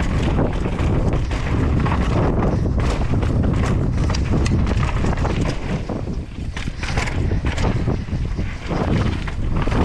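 Strong wind buffeting the microphone in a constant deep rumble, with a rapid, irregular rattle and clatter from a mountain bike riding over rough, rocky ground.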